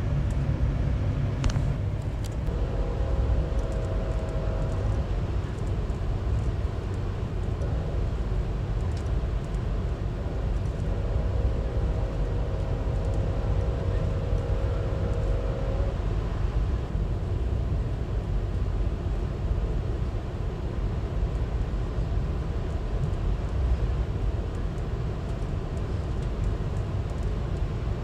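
VIA Rail passenger train running along the line, heard from aboard as a steady low rumble of wheels on rails. A faint pitched tone comes in twice for a few seconds.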